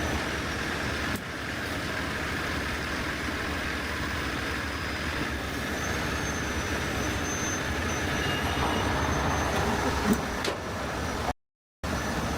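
Heavy rotator tow truck running steadily during a lift, with a thin high whine throughout. A few sharp clicks come near the end, and the sound cuts out completely for about half a second just before the end.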